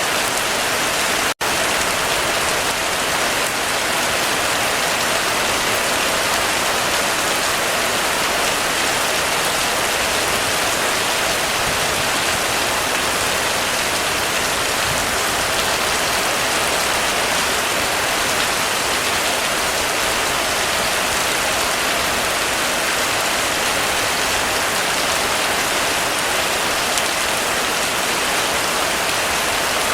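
Heavy rain drumming steadily on a roof, an even dense patter with no let-up. A split-second gap in the sound about a second in breaks it once.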